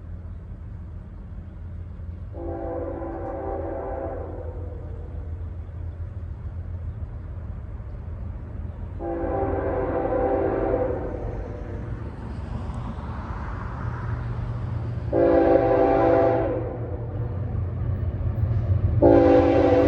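Diesel locomotive air horn on a BNSF freight train, sounding a chord in four blasts, long, long, short, long: the grade-crossing signal. Under it the low rumble of the approaching locomotives grows steadily louder.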